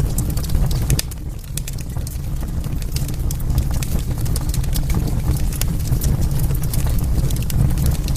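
Wood fire burning in a fireplace: frequent sharp crackles and pops from the burning logs over a steady low rumble of the flames.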